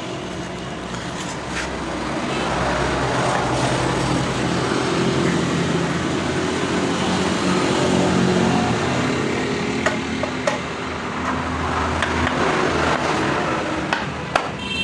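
Steady motor traffic running past, with shifting low engine hum, and a few light clicks of metal as the clutch cover is set back onto the motorcycle engine.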